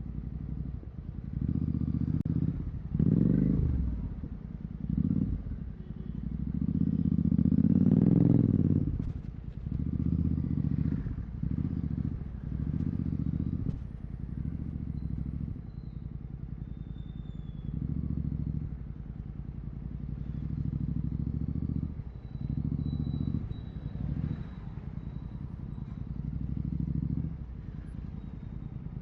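Royal Enfield Continental GT 650's parallel-twin engine through Red Rooster aftermarket exhausts with the dB killers removed, pulling in repeated throttle openings and easing off between them. The longest and loudest pull comes about eight seconds in.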